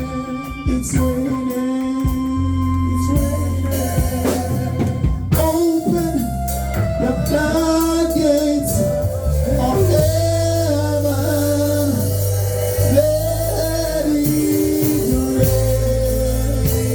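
Live worship music: a singer holding long notes over a band with bass, guitar and drums.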